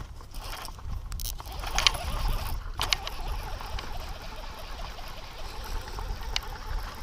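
Scattered clicks and knocks of fishing gear being handled in a kayak, most in the first few seconds and one more near the end, over a steady low rumble.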